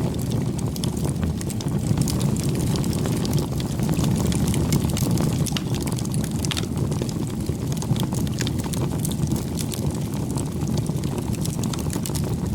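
Wood bonfire burning: a steady low rush of flames with frequent sharp crackles and pops from the burning wood.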